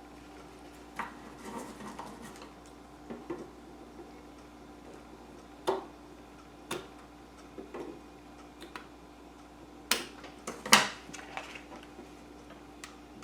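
Scattered light clicks and taps as an old metal tin and its trimmings are handled, a few sharper knocks near the middle and end, over a faint steady hum.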